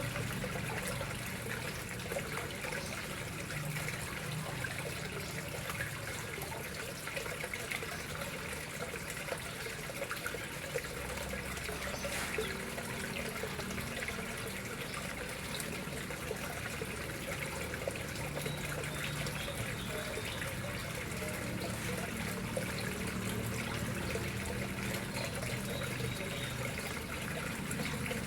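Water flowing steadily and trickling into a koi pond.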